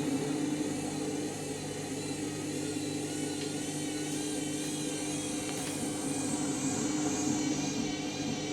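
Candy Grand'O Vita 7kg washing machine spinning: a steady motor hum with a higher whine that wavers gently in pitch. The load is a bit out of balance.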